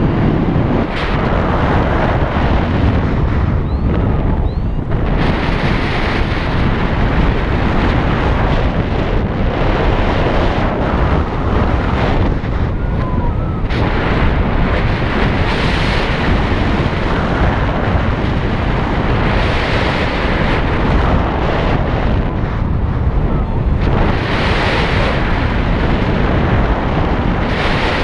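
Heavy wind rushing and buffeting over the microphone of a moving motorcycle, a loud steady rumble whose hiss swells and eases every few seconds.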